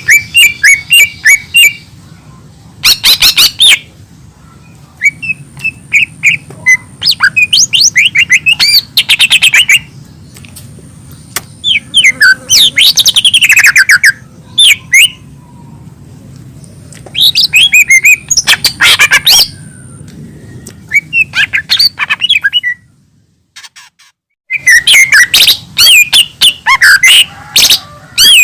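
Cucak ijo mini (a small green leafbird) singing loud, chattering bursts of fast, sweeping whistled notes, with short pauses between phrases and a brief break about three-quarters of the way through. A steady low hum runs underneath.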